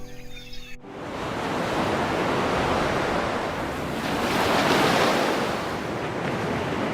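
A loud rushing noise that starts abruptly under a second in, then swells and eases twice, of the kind made by surf or strong wind.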